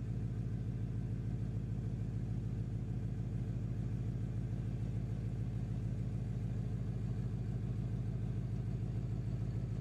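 2015 Ford Mustang GT's 5.0-litre V8 idling steadily through a newly fitted MBRP 3-inch Street cat-back exhaust, with a low, even exhaust note and no revving.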